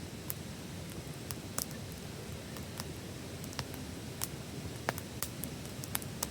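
Wood fire burning: a steady low rush of flame with irregular sharp crackles and pops from the burning wood.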